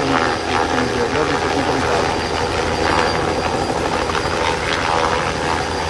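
Loud, steady mechanical noise from a large machine, with faint voices beneath.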